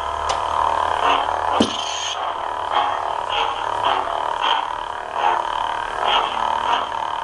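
Lightsaber soundboard playing the Old Republic II sound font: a steady saber hum that swells and fades with each swing, about twice a second, with a sharp clash strike about a second and a half in.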